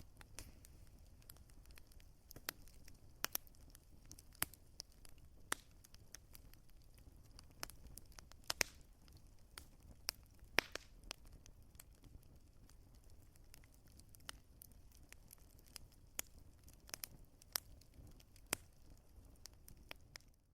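Wood fire crackling in a fireplace: irregular sharp pops and snaps over a soft low rumble and hiss.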